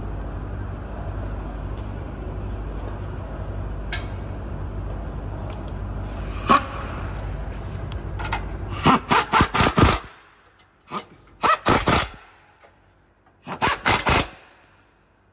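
Wrench tightening exhaust hanger clamp nuts onto the truck frame, heard as quick rattling strokes in three short runs in the second half. A steady low hum runs underneath and stops about ten seconds in.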